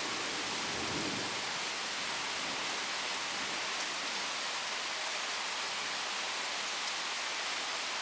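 Steady rain falling during a thunderstorm, an even hiss of rain on surfaces.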